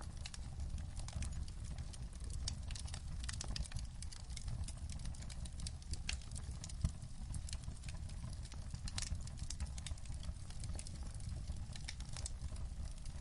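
Wood fire in a fireplace crackling, with irregular sharp pops and snaps, a few louder than the rest, over a low steady rumble.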